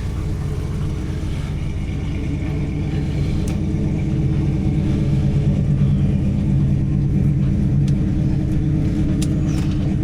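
Car engine running at a steady idle, a low even rumble that grows a little louder about four seconds in.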